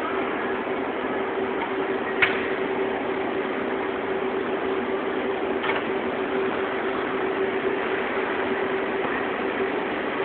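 Automatic fabric spreading machine running: a steady mechanical hum with a constant tone, with two sharp clicks, about two seconds and about six seconds in.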